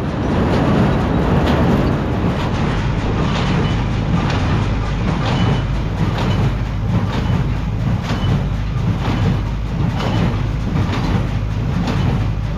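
Tractor pulling a small square hay baler, the engine running steadily under the regular knock of the baler's plunger, about one and a half strokes a second.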